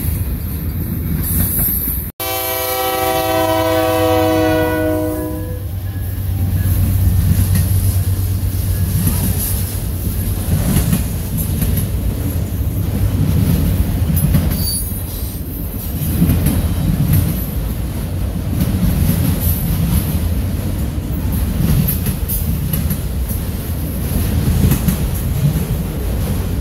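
Freight train passing close by, its cars' wheels rumbling and clattering steadily over the rails. About two seconds in, right after a brief dropout, a locomotive horn sounds one steady chord of several notes for about three seconds.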